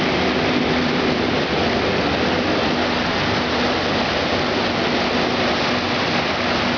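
Floodwater rushing steadily down a swollen creek, with a tractor engine humming steadily under the water noise.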